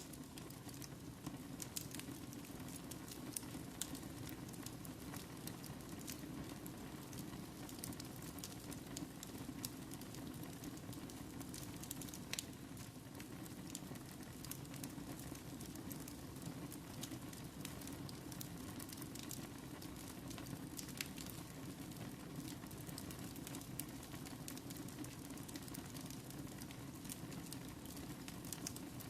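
Wood fire burning in a fireplace, crackling steadily with frequent sharp pops at irregular intervals over a low, even rush.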